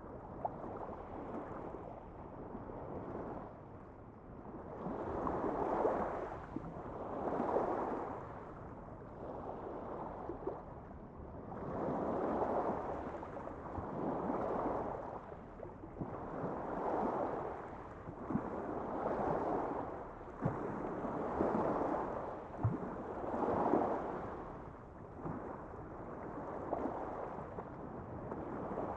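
Small waves lapping: a wash of water that swells and falls about every two seconds.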